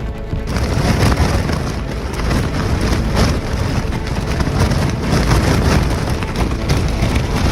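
Strong gusting wind blasting across the microphone: a loud, uneven rushing noise with heavy low rumble that comes in about half a second in.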